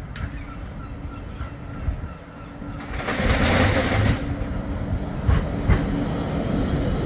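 Flexity 2 tram running on street track, with a steady low hum. A loud hiss lasts about a second, starting three seconds in, and a few sharp knocks follow.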